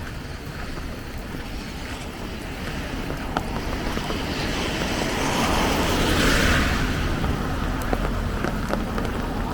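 Steady rain with a low rumble, and a vehicle passing on the wet road: its tyre hiss swells up to a peak about six seconds in, then fades. Scattered small raindrop ticks throughout.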